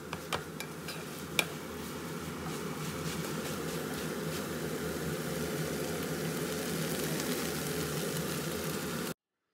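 Sotanghon glass noodles, shrimp and vegetables sizzling in a nonstick frying pan as they are stirred with a wooden spatula, the sizzle slowly growing louder. A few light knocks of the spatula on the pan in the first second and a half, the loudest about a second and a half in; the sound cuts off suddenly near the end.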